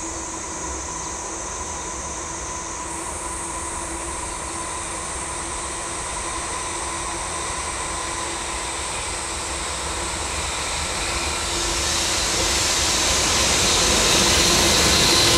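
JR Freight EH500 'Eco-Power Kintaro' electric locomotive hauling a container freight train, approaching along the track. It starts as a steady distant rumble and grows steadily louder over the last few seconds as the locomotive draws near.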